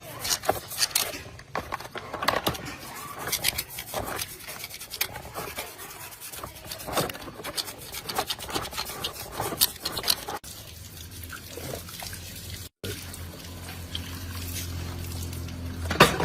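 Irregular scraping, rubbing and light clicks of hand work on metal parts. After a cut about thirteen seconds in, an engine runs steadily with a low hum.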